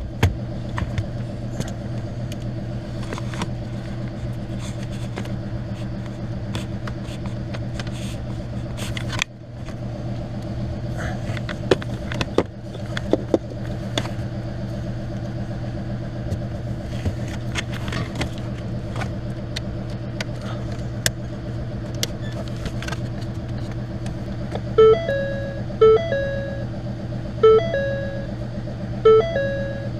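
A car running with a steady low hum and scattered light clicks. About five seconds before the end, a short phrase of chime-like musical notes starts repeating over the hum.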